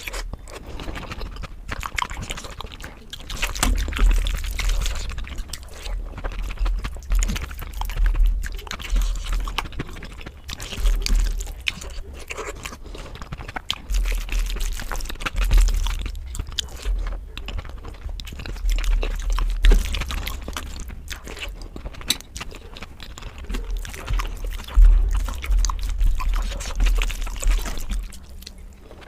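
Close-miked eating sounds: chewing and wet mouth smacks with many irregular small clicks and low thumps.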